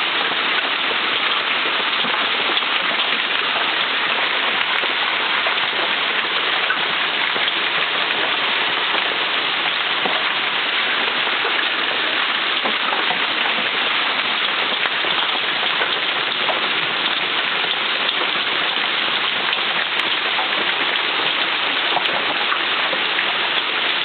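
Heavy rain falling steadily, an even dense rush of drops.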